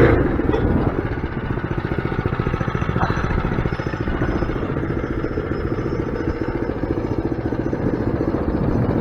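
Mini bike's small engine running steadily with a rapid, even putter.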